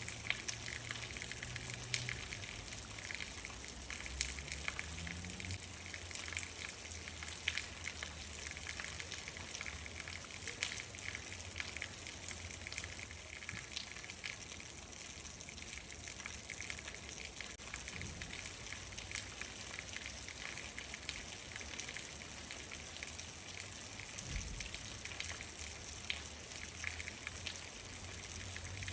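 Steady rain falling, with many separate drop hits ticking through an even hiss.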